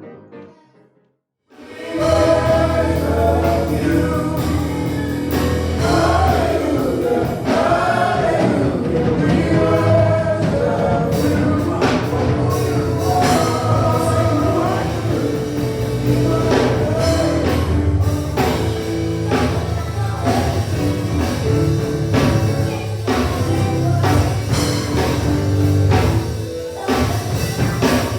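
Gospel music: a choir singing over a band with drums and a heavy bass line. It comes in after a brief silence about a second in and runs on at full level.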